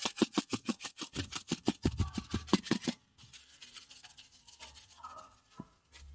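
A seasoning shaker shaken rapidly over raw chicken, a quick even rattle of about seven shakes a second that stops about three seconds in, followed by faint rustling.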